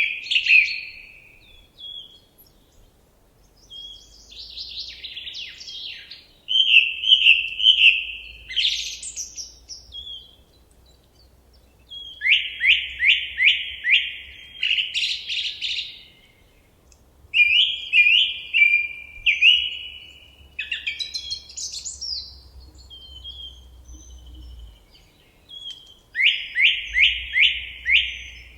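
A songbird singing in separate phrases a few seconds apart. Several phrases are a quick run of four or five repeated downward-slurred notes, with quieter chirps and short whistles in between.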